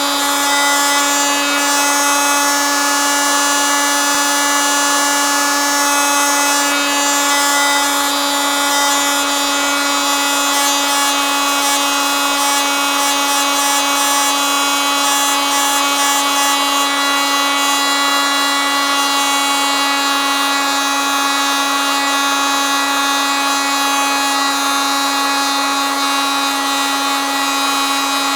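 Oscillating multitool running continuously, a steady, unbroken pitched buzz with many overtones.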